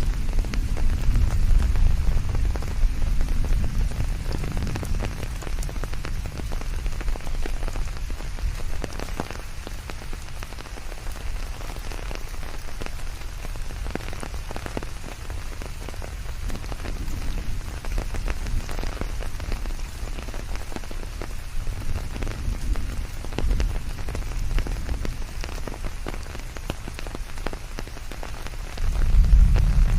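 Steady forest rain with many pattering drops, blended with a constant white-noise hiss. A deep low rumble is strong in the first few seconds, eases off, then swells again just before the end.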